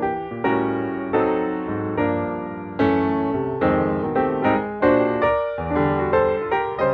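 Piano music playing: chords struck about every half second, each note fading before the next.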